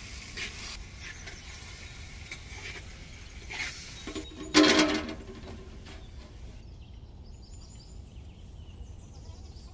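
A steel plate used as a lid clanks once against a clay cooking pot, with a short metallic ring, about four and a half seconds in. Before it, a metal spoon scrapes lightly in the pot.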